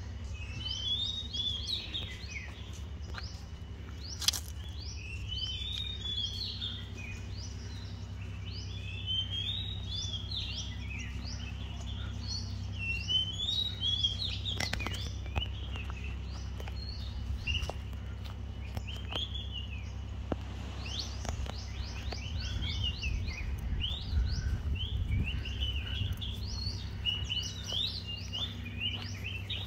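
Several birds chirping and calling, many short quick notes overlapping, over a steady low hum.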